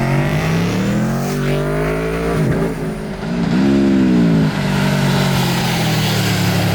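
Aprilia Tuono V4 Factory 1100's V4 engine revving hard under acceleration, climbing in pitch for about two seconds and dropping sharply, pulling up again and falling away, then holding a steady note near the end.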